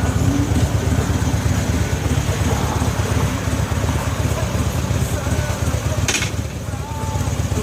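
Harley-Davidson V-twin motorcycle engine idling steadily, with a short hiss about six seconds in.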